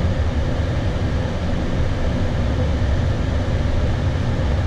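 Steady flight-deck noise of an Airbus A320 on final approach: a constant low rumble with an even hiss over it, from airflow, engines and air conditioning.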